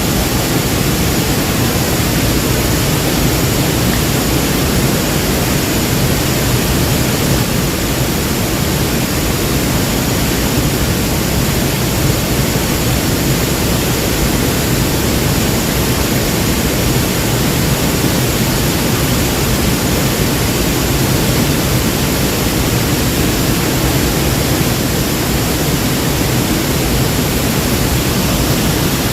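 Waterfall: water falling and splashing in a steady, loud rush of noise.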